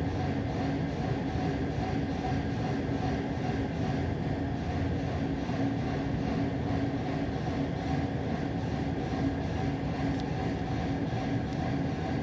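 Steady low mechanical rumble with a constant hum, running evenly without any distinct bangs or thuds.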